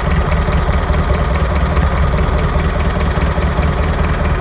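Ford 172 four-cylinder engine in a propane forklift idling steadily, warmed up after about an hour's running, with a light, fast, high-pitched ticking running over the rumble.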